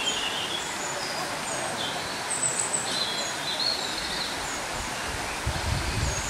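Small birds chirping in short, high calls over a steady outdoor hiss, with low rumbling bumps starting near the end.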